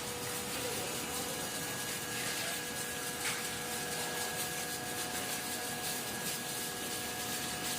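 Flake ice generator running: the rotating ice blade scraping the frozen ice layer off the vertical evaporator's inner wall as the flakes fall, heard as a steady rushing, scraping noise with a few faint steady machine tones under it.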